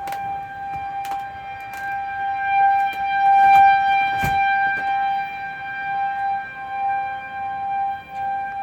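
Outdoor tornado warning siren sounding one steady tone whose loudness slowly swells and fades, with a few short knocks.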